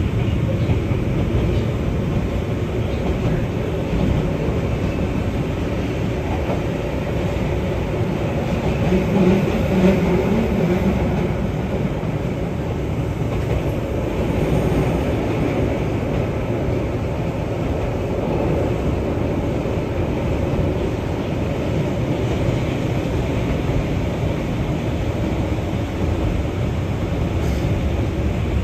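Keihan 600 series electric train running, a steady mix of motor and wheel-on-rail noise heard from inside the car, swelling briefly with a humming tone about ten seconds in.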